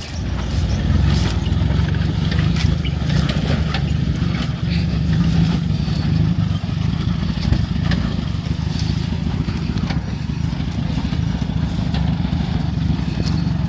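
Vehicle engine idling steadily, a low even rumble, with a few light knocks and clatters over it.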